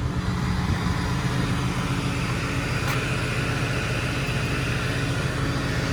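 Flatbed rollback tow truck's engine idling steadily, a low even hum, with a faint tick about halfway through.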